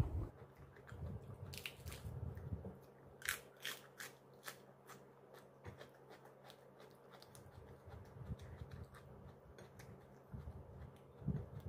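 A person eating close to the microphone: crisp crunching bites into a raw lettuce leaf, several in quick succession, then softer chewing.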